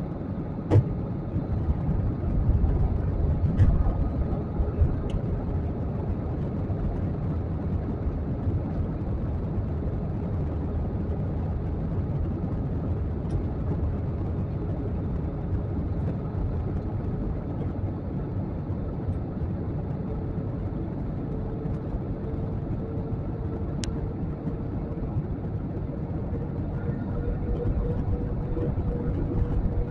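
Jet airliner cabin noise in flight: a steady, low rumble of engines and airflow with a faint hum, broken by a few short sharp clicks.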